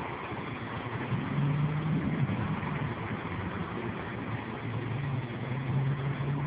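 Steady rushing noise of a storm's rain and wind, with a low vehicle-engine hum coming in twice, about a second in and again near the end.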